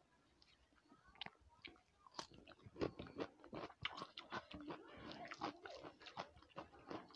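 A person chewing with mouth smacks while fingers mix rice and curry on a plate. Quiet, sparse short clicks at first, coming thickly from about three seconds in.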